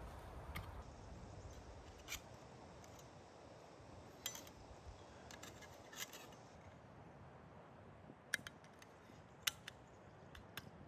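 Faint, scattered clicks and small handling noises, about seven of them at irregular intervals, over a low steady hiss.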